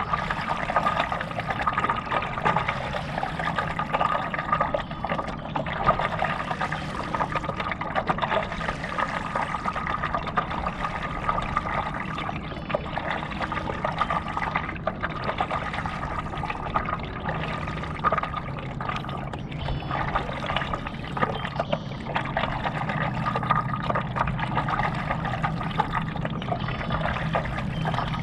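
Lake water trickling and splashing around a stand-up paddleboard as it is paddled along, a continuous wash, with a steady high tone running underneath.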